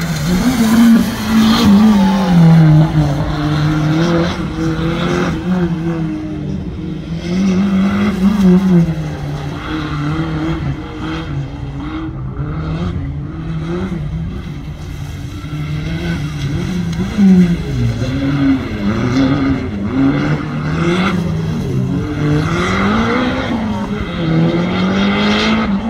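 Small Daihatsu kei car's engine being driven hard, revving up and dropping back again and again as it accelerates and brakes between tight turns.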